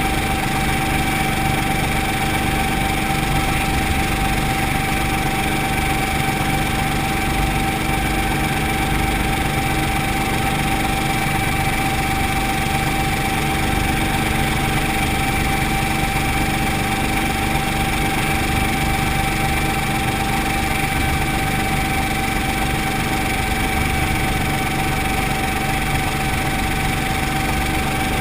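Brantly B2B helicopter's piston engine and rotor system running steadily, a constant drone with a steady whine on top.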